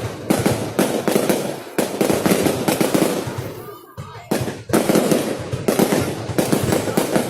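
Fireworks crackling and popping in a rapid, dense stream; the crackle dies away about three and a half seconds in, then a fresh volley starts up loudly just after four seconds.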